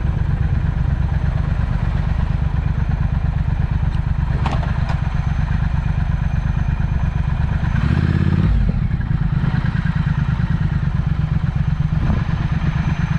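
Triumph Speed Twin's parallel-twin engine running through an aftermarket Vance & Hines exhaust, a steady rapid pulsing with a brief heavier surge about eight seconds in.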